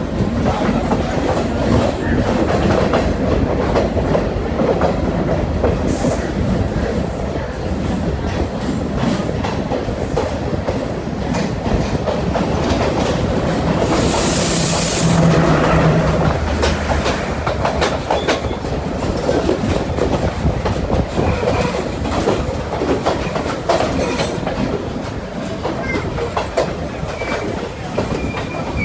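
A moving train: steady running rumble with wheels clicking over the rail joints, and a louder rushing noise for about two seconds near the middle.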